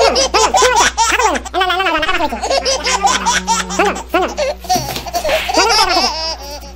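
High-pitched laughter, quick rising-and-falling giggles one after another, over background music.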